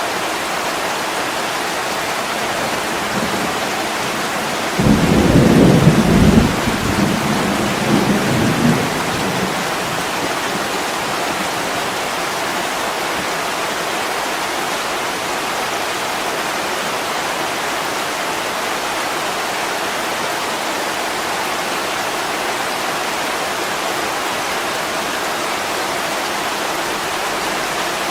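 Steady heavy rain pelting a window, with a rumble of thunder that breaks in suddenly about five seconds in and dies away by about ten seconds.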